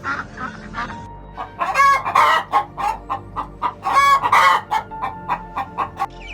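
Chickens clucking in a quick run of short calls, with two louder, drawn-out squawks about two and four seconds in.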